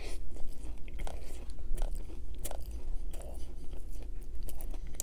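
Biting into and chewing a crispy chicken burger on a sesame bun, with many short, irregular crunches from the breaded patty as it is chewed.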